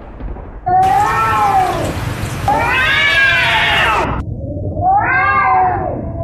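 A domestic cat meowing three times: long, drawn-out meows that rise and fall in pitch.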